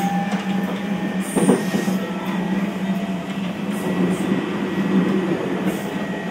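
Keio Inokashira Line 1000 series electric train heard from inside a passenger car, running with a steady low hum and faint thin tones from its Toyo IGBT-VVVF inverter drive over wheel-on-rail noise.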